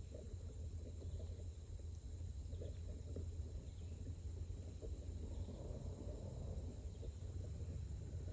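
Honda CRF125F dirt bike's single-cylinder four-stroke engine running at low revs, a steady low rumble.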